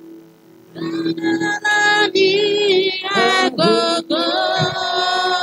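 A high voice begins singing about a second in, in phrases with sliding pitch, over a steady held keyboard note.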